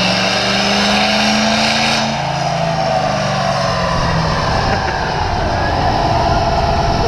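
Turbo-diesel pickup truck engine running hard on a chassis dynamometer, with a high whine over it. About two seconds in, the high end drops away and the engine pitch slides down as the run winds off.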